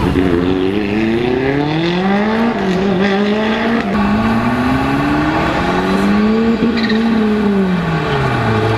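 Rally car engine accelerating hard, its pitch climbing, dropping briefly about two and a half seconds in at a gear change, climbing again, then falling away over the last two seconds as the driver lifts off.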